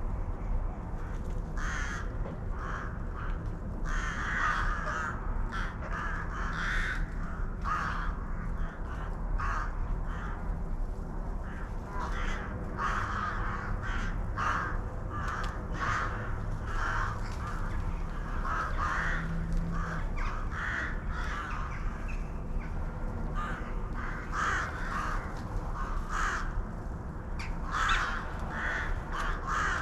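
Birds calling over and over in short repeated calls, with a steady low rumble underneath.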